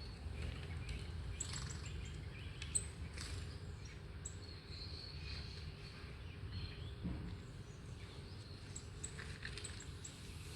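Birds chirping and calling from a bird video played through a tablet's speaker: short high chirps scattered throughout, with a brief trill about halfway. A steady low hum lies underneath, and there is one sharp tap a little under three seconds in.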